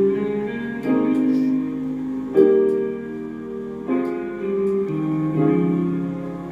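Background music: piano notes and chords played at an unhurried pace, a new chord struck about every one to one and a half seconds.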